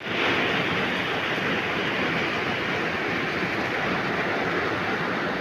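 Steady rain: an even hiss with no breaks.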